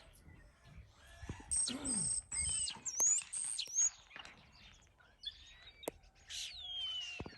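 Small songbird singing outdoors: a quick run of high, whistled notes with fast pitch sweeps, then a shorter phrase near the end.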